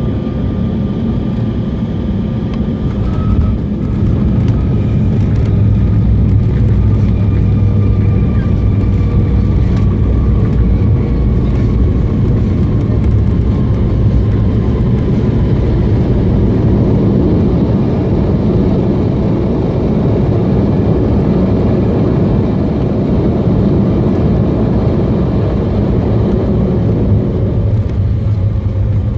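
Airliner cabin noise during landing: a steady, loud rumble of the jet engines and rushing air. A faint engine whine sinks slowly in pitch, and the noise rises a little about four seconds in.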